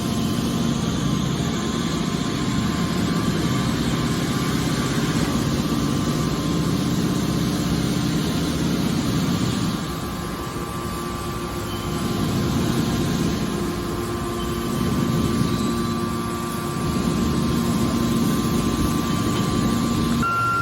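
Hydraulic scrap metal baler shear running: a steady machine drone with a thin, constant whine over it, easing off slightly about halfway through.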